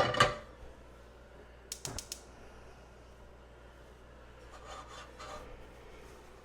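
A metal pot set down on a stovetop with a loud clatter and a short ring. About two seconds in comes a quick run of four sharp clicks, and near five seconds a utensil briefly scrapes in the pot.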